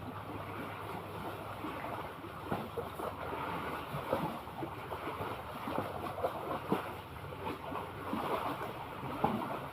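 Sea water lapping and splashing in small irregular slaps over a steady wash of waves, with some wind on the microphone.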